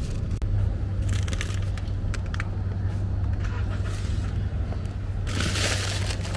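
Steady low hum of a car engine idling, with scattered rustling clicks and a brief burst of hiss about five seconds in.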